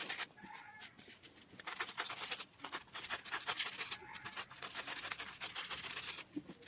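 Scratchy rubbing and cutting noises of hand craft work on paper-type material, coming in spells with short pauses about half a second and a second and a half in.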